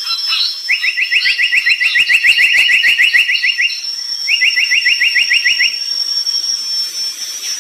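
A brown tali pocong songbird singing vigorously: two fast trills of rapid rising notes, the second shorter, with scattered short higher calls and a steady high thin tone behind.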